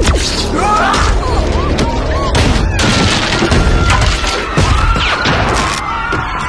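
Film action-scene sound effects: repeated booms and crashing impacts over a dense rumble, with many short, high, gliding mechanical screeches and a score underneath.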